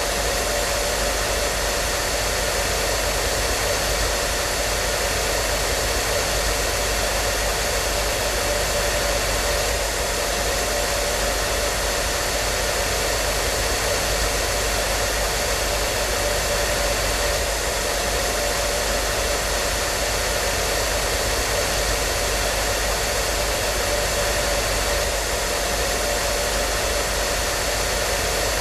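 Hair dryer running continuously: a steady, unchanging blowing noise with a faint whine from the motor.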